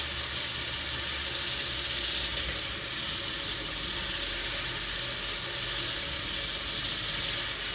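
Steady rushing hiss of running or spraying water, with a faint low hum beneath it.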